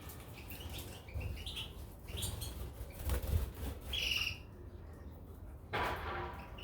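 Caged finches chirping in short rising calls, with one clearer whistled note about four seconds in. Near the end comes a brief noisy burst of wings fluttering.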